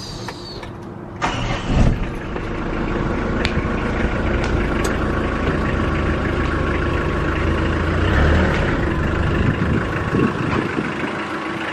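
Truck engine starting about a second in, then running steadily, with the engine rising briefly around eight seconds in.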